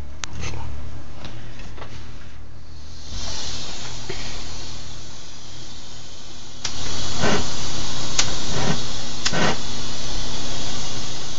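Gas torch hissing steadily, louder from about two-thirds through, with a few sharp clicks over it.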